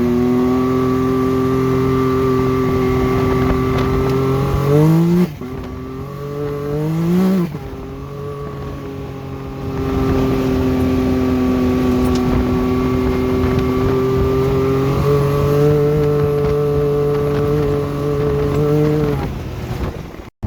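Can-Am Maverick X3 XRS Turbo RR's turbocharged three-cylinder engine running steadily while driving. It revs up twice in quick climbs, about five and seven seconds in, each cut off sharply. It steps up in pitch about fifteen seconds in and fades near the end.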